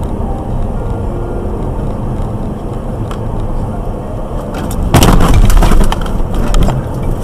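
Car on the road with steady driving noise, then about five seconds in a loud vehicle collision: a crash impact with breaking and cracking, followed by about a second of scattered clattering.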